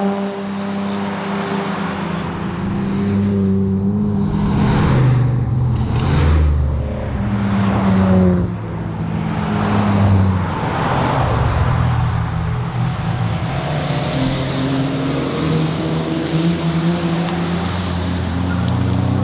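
Chevrolet Nova engine being driven hard on a rally stage, its revs rising and falling repeatedly as it works through the gears.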